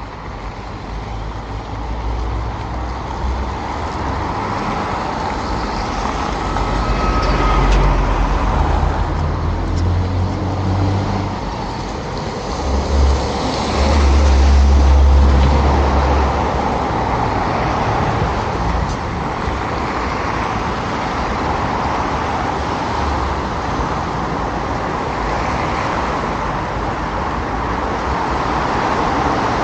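Street traffic noise: cars passing on a busy road, with a heavier low rumble swelling about halfway through as a larger vehicle goes by.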